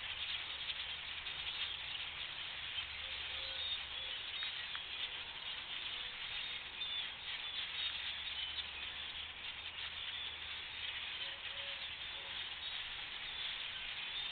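A large number of birds chirping and chattering at once in a dense, continuous chorus.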